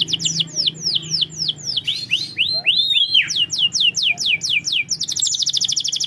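Domestic canary singing: a run of rapid downward-sweeping notes, broken about two seconds in by a few arching notes, then a fast, even trill near the end.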